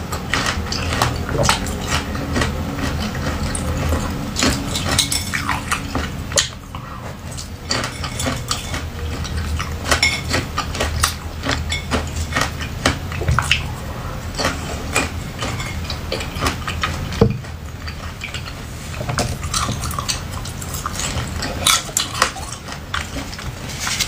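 Close-miked crunching and chewing of frozen pomegranate seeds: a steady run of crisp cracks and snaps. Fingernails now and then click against a ceramic plate.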